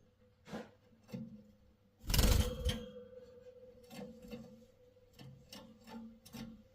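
A series of irregular knocks and clicks, the loudest a heavy thump about two seconds in, over a faint steady hum.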